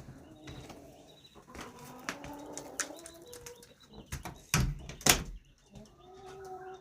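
Broody hen and her chicks calling softly in short pitched calls. Two loud sharp knocks come about three and a half and four seconds in.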